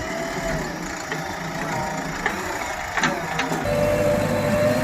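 JCB 3DX backhoe loader's diesel engine running steadily, with a few sharp clicks; a little past halfway it gets heavier and deeper.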